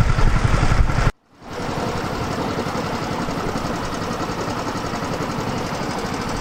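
Tour-boat engines running steadily. The sound cuts out about a second in, and a second steady engine sound fades back in.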